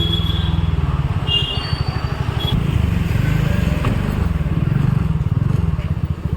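A motor vehicle engine running with a fast, even low pulsing. A brief high tone, like a horn toot, sounds about a second and a half in.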